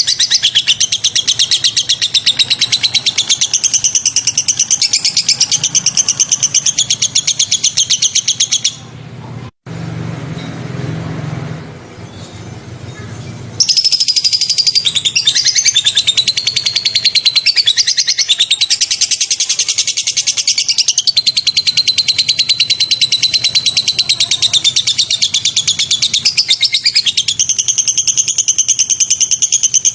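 White-rumped shama singing long runs of rapid, high-pitched trilled and chattering notes, its sharp 'shot' phrases. About nine seconds in the song breaks off for a few seconds of low hum, then resumes about fourteen seconds in.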